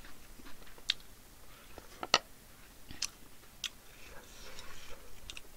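A person chewing a mouthful of food close to the microphone, with soft mouth sounds and a few sharp clicks, the loudest about two seconds in.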